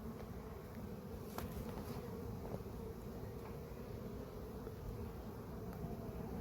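Honeybees humming steadily around an opened hive as frames are inspected, with one faint click about a second and a half in.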